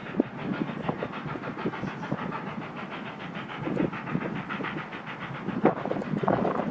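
Victorian Railways K class 2-8-0 steam locomotive K153 working with its train: steam hiss and a fast, even rhythm of beats, with a few heavier knocks near the end.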